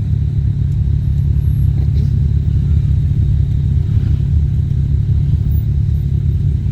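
ATV engine running steadily at low revs: a loud, even rumble.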